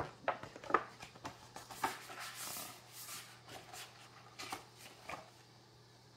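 Paper rustling and handling of a picture book as a page is turned: a run of small crackles and taps, with a longer rustle about two seconds in.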